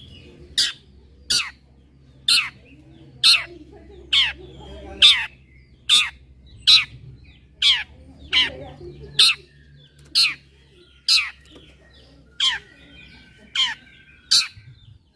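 Long-tailed shrike (cendet) giving a series of loud, sharp calls, each a quick downward sweep, about one a second.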